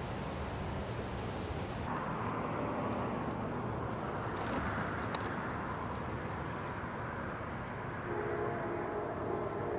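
Steady rushing rumble of a passing train, then a locomotive horn starts sounding a chord of several notes about eight seconds in.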